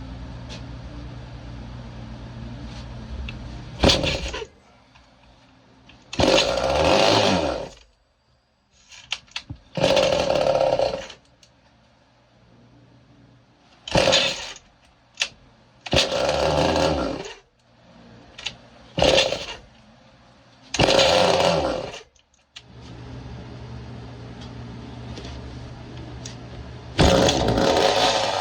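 Small two-stroke engine of an early-1970s Craftsman chainsaw, a Poulan-built saw. It idles, then is revved in about half a dozen short bursts, falling back to a faint sputter and almost stalling between them, and settles into a steady idle again near the end before one more rev.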